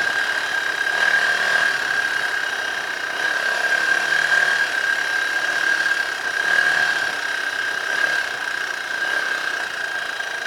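Dirt bike engine running at a fairly steady pitch, with a constant high whine over the engine noise.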